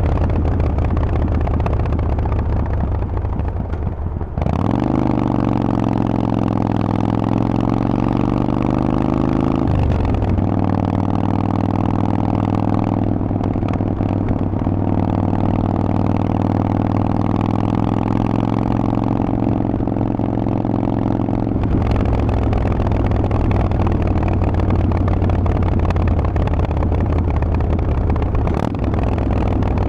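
Harley-Davidson Forty-Eight's 1200 cc air-cooled V-twin running loud through a Vance & Hines exhaust. It runs low and uneven at first, climbs sharply in pitch about four seconds in, and steps in pitch near ten seconds. It then holds a steady pitch until about twenty-two seconds in, when it drops back to a low rumble.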